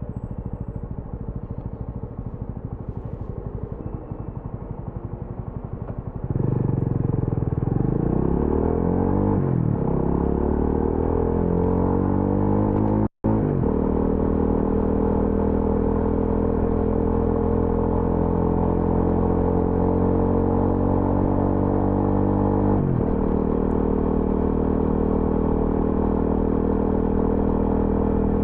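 TVS Apache RTR 200 4V's single-cylinder engine riding at low revs, then about six seconds in the exhaust note gets louder and climbs in pitch as the bike accelerates. The sound cuts out for an instant near the middle, then the engine runs on steadily with a short dip in pitch about two-thirds of the way through.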